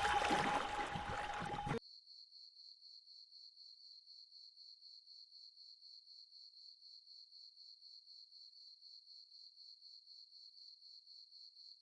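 A louder sound with a steady tone cuts off abruptly about two seconds in, leaving a faint, high-pitched, insect-like chirp that pulses evenly about four to five times a second.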